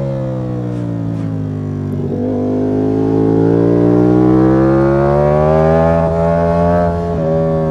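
Ducati Panigale V4 S's 1103 cc Desmosedici Stradale V4 engine, heard onboard. Its note falls as the bike slows, then rises steadily under acceleration from about two seconds in. About seven seconds in the pitch drops suddenly at an upshift.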